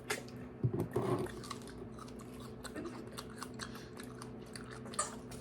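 Someone chewing a big mouthful of ripe strawberry close to the microphone: many small wet smacking clicks, busiest about a second in, over a steady low hum.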